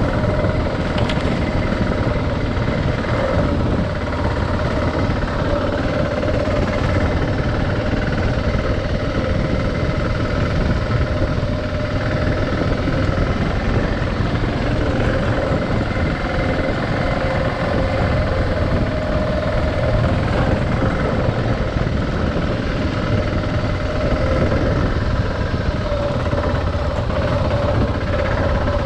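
Adventure motorcycle engine running steadily while riding, with an even rushing noise underneath and a steady hum throughout.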